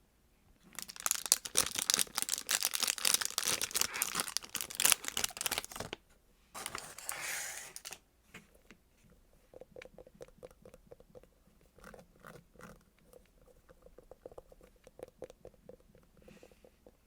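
Thin plastic wrapping crinkling and tearing loudly for about five seconds, then a second, shorter crinkle. After that come quieter soft squishes and light clicks as a squishy toy is handled.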